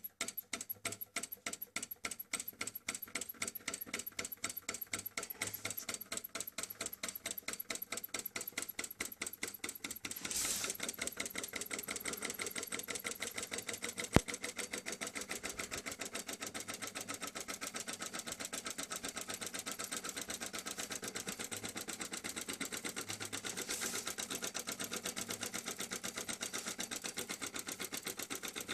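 Small solenoid engine with a flywheel running, its solenoid clicking in a fast, even rhythm. The clicking speeds up over the first ten seconds or so, then holds steady and a little louder. One sharper click stands out partway through.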